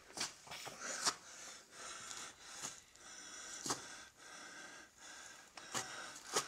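A man breathing hard and raggedly, with a loud breath about once a second, and a few sharp clicks in between.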